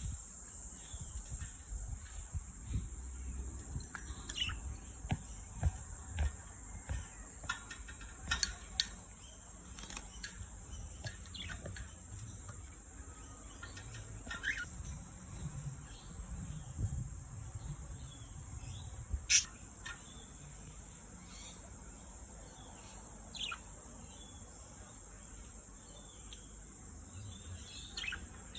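Scattered short bird chirps and a few clicks over a steady high-pitched hiss, with one sharper, louder click a little past the middle.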